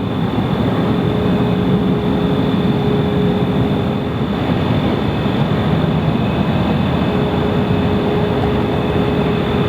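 Jet airliner engines running, a loud, steady rush of noise with a thin steady whine through it that drops out midway and comes back.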